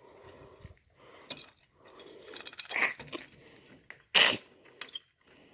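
Key being worked in a stuck old lock: small metallic clicks and rattles as it is jiggled and tugged but will not come out. A short, loud hissing burst comes about four seconds in.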